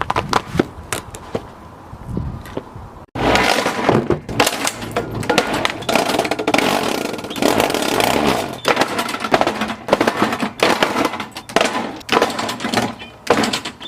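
A running lawnmower chewing up a plastic toy: dense, rapid cracking and clattering of breaking plastic. The sound breaks off abruptly about three seconds in and comes back louder and busier.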